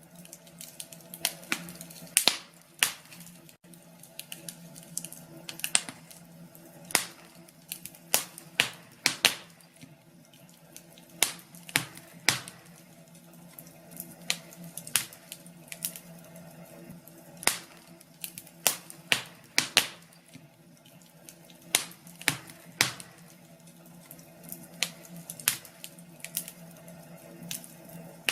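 Wood fire crackling in a fireplace, with irregular sharp pops and snaps over a faint steady low hum.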